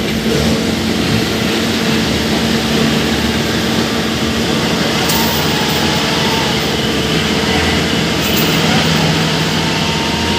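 Combine harvester diesel engine running steadily, a constant, unbroken drone.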